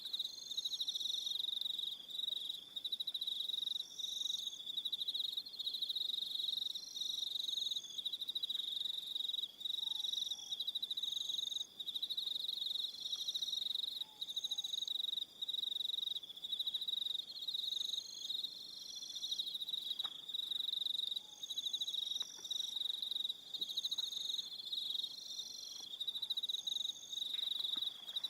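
Evening chorus of crickets: a steady, high-pitched trill without a break, with short higher chirps from other insects repeating about every second and a half above it.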